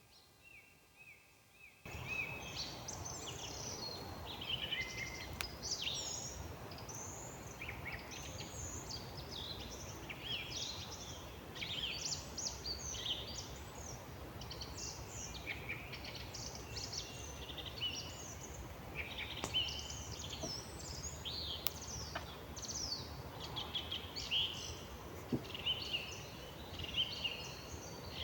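Spring woodland dawn-chorus-like mix of many songbirds chirping and warbling at once over a steady low hiss, cutting in suddenly about two seconds in after a quiet moment.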